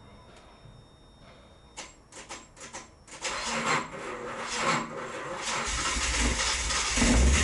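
Nissan S30 240Z's L-series straight-six being started: a few clicks, then cranking from about three seconds in. The engine catches near the end and runs louder.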